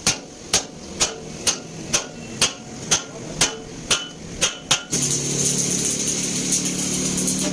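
Hammer blows on metal, steady at about two a second, during work on a truck axle housing. About five seconds in the hammering stops and a steady power tool or machine starts running.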